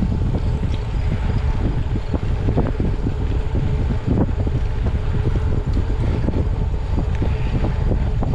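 Wind buffeting the microphone of a camera carried on a moving bicycle: a steady low rumble broken by rapid, irregular gusts.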